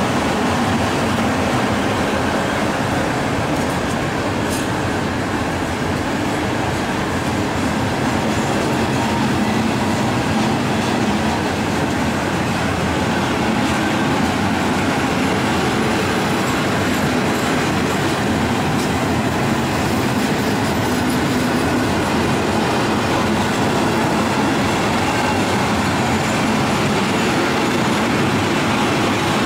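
A freight train's open coal wagons rolling past at close range, with a steady rumble and clatter of steel wheels on the rails that holds even throughout.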